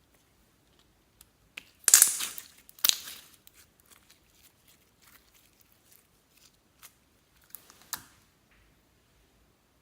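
Clear slime being pressed and pulled by hand, with glitter and makeup worked in. It gives short noisy bursts about two and three seconds in, quiet handling between, and another smaller burst near the end.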